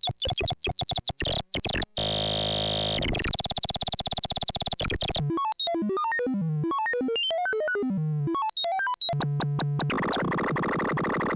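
Analog synthesizer oscillators of a 3340-based dual VCO module playing electronic tones. A fast run of short notes gives way to held tones about two seconds in, then a pattern of rising and falling notes, and from about ten seconds in a dense, harsh, noisy texture.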